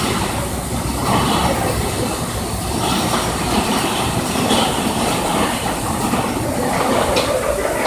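CNC milling machine running and cutting a cast-iron pillow block, a steady rumbling machining noise.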